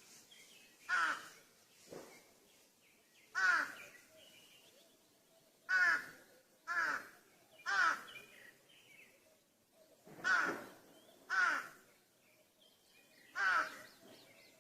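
Crow cawing: about nine harsh caws, some single and some in quick runs of two or three about a second apart, with pauses between the runs.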